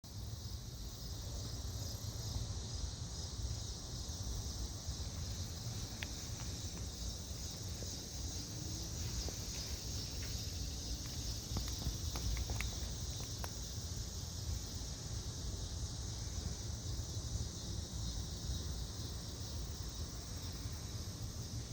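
Outdoor ambience: a steady chorus of insects shrilling high, over a low rumble of wind on the microphone, with a few faint clicks.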